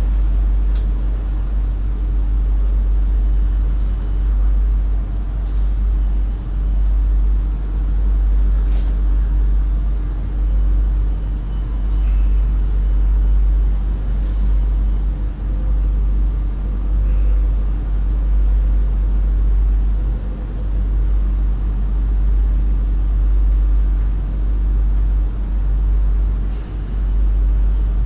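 Steady low rumble and hum from a stationary VIRM double-deck electric train, its onboard equipment running while it stands at the platform, with a few faint short ticks.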